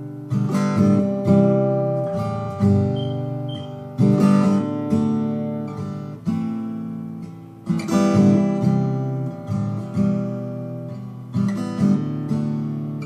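Recording King RD-127 acoustic guitar strumming chords in an instrumental break, each strum ringing out and fading before the next.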